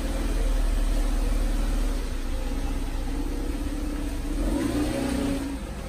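Jeep SUV's engine running at low speed as it pulls out of a garage, rising briefly in pitch as it accelerates about three-quarters of the way through.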